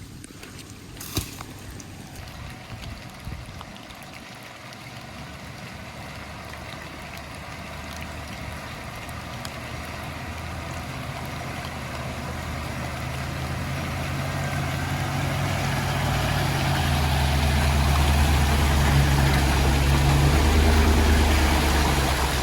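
Chevrolet Suburban's engine running and pulling harder as it drives on, the sound growing steadily louder, with a deep engine hum strongest near the end. There is a single sharp knock about a second in.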